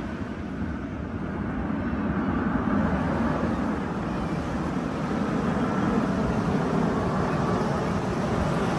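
Steady rumbling noise of an aircraft in operation, with no distinct events, growing slightly louder a few seconds in.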